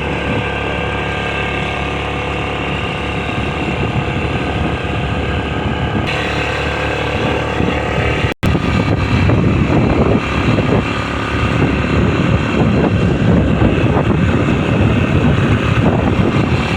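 A motor vehicle's engine running steadily while travelling. It cuts out abruptly about eight seconds in, then comes back louder and rougher.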